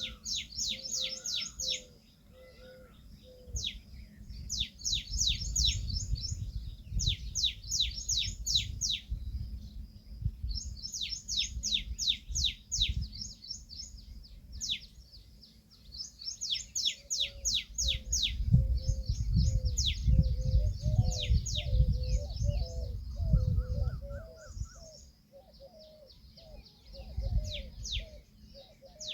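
Birds calling: repeated bursts of rapid high chirps, each trill lasting a second or two, with a lower warbling call repeating under them through the second half, over an uneven low rumble.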